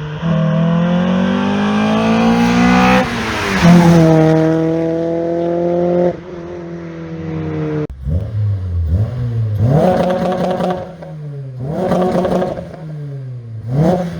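Honda K24 four-cylinder engine in a Civic running under throttle. The pitch climbs for about three seconds, then drops sharply as at a gear change and climbs again. After a cut about eight seconds in, the engine revs up and down repeatedly.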